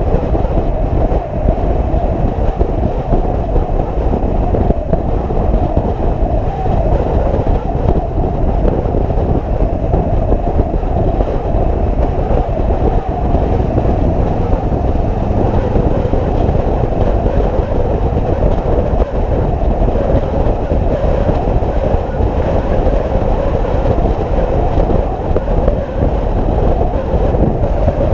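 A motorcycle riding at a steady speed: a loud, unbroken rush of engine, road and wind noise that holds level throughout.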